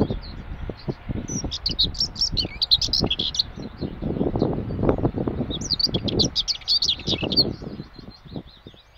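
Bird chirping in two quick bursts of high, rapid notes a few seconds apart, over an uneven low rumble that fades out near the end.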